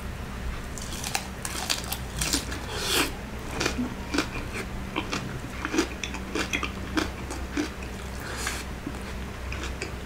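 Close-up crunching and chewing as a mouthful of crispy fried food is bitten into and chewed, with many irregular sharp crackles that thin out near the end.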